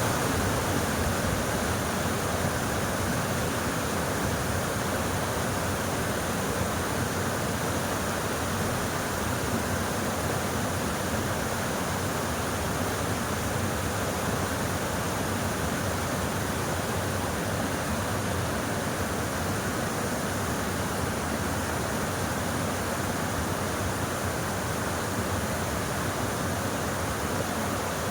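Mountain stream rushing over rocks, a steady, even water sound with no breaks.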